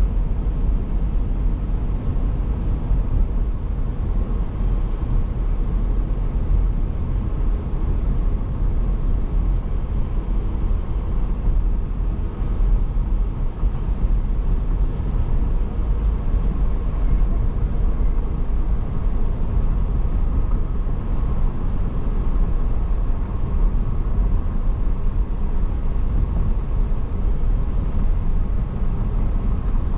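Steady road and engine noise of a car driving, a continuous low rumble with no breaks.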